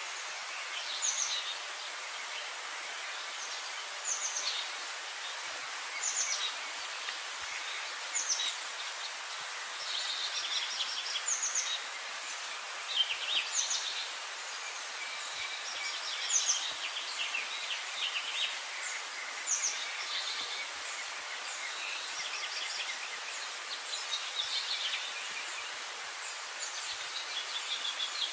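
Small birds chirping over a steady outdoor hiss. A short, high call repeats about every two seconds, with quicker chirps in between.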